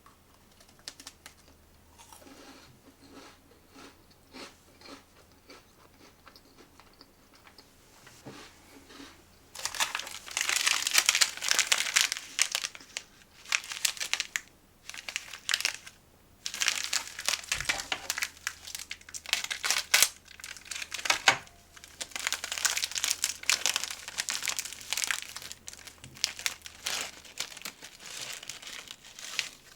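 Snack packaging being crinkled and torn open: soft handling at first, then from about a third of the way in, several loud runs of crinkling separated by short pauses.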